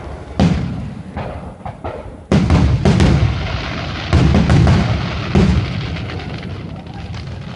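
Fireworks going off: a run of loud, deep booms, most of them bunched between about two and six seconds in, each trailing off in a rumble, with smaller pops between.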